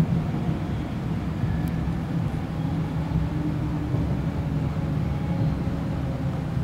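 Class 390 Pendolino electric train running along the track, heard inside the carriage: a steady low rumble of wheels on rail with a faint low hum.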